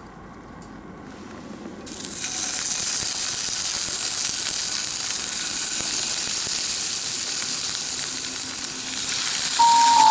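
Food sizzling in a hot iron pan over a campfire, the steady sizzle starting suddenly about two seconds in. A sustained musical tone comes in near the end.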